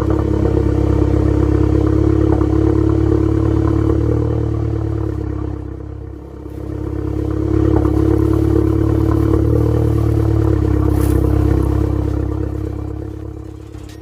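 A car engine running steadily. It swells in loudness twice, dips briefly about six seconds in, and fades near the end.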